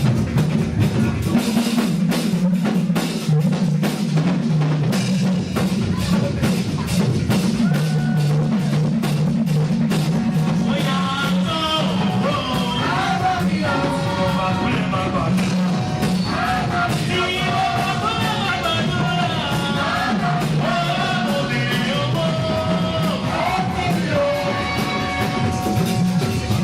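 Live praise band music with a drum kit keeping a steady beat; a melody line comes in about eleven seconds in and carries on over the drums.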